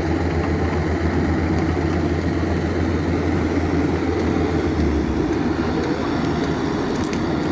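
Excavator's diesel engine running steadily with a low hum, its low note shifting slightly about five seconds in.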